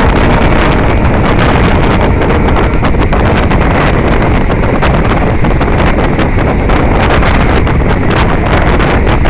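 Strong wind buffeting the microphone: a loud, steady rush with many short crackles and knocks throughout.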